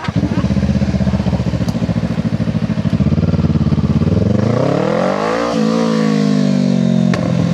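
Kawasaki Ninja 500 SE's parallel-twin engine running at low steady revs, then revving up about four seconds in as the bike accelerates and holding a higher steady note, with a brief dip and click near the end.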